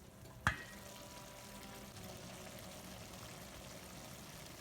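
Water pouring steadily into a cooking pot, after a single sharp knock about half a second in.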